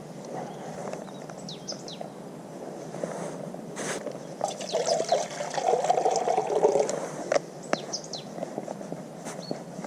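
Water poured into a cooking pot, loudest for a couple of seconds around the middle, with a few light knocks.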